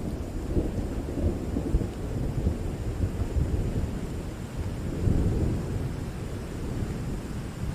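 Thunder rumbling low and continuously over steady rain, swelling about five seconds in.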